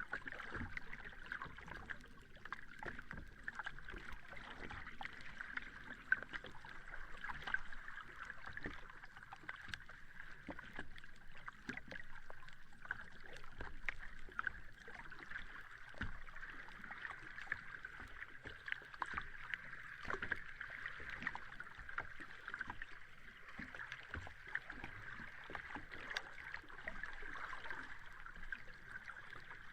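Sea water lapping and splashing at the shore, a steady wash full of small, quick splashes, with no big breaking waves.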